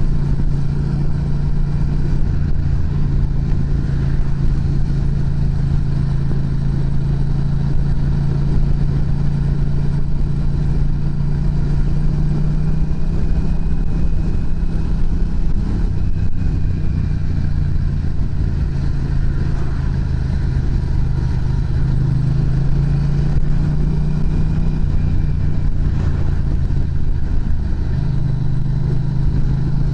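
Yamaha MT-07's parallel-twin engine running through an aftermarket muffler, with a steady exhaust note that shifts in pitch a few times.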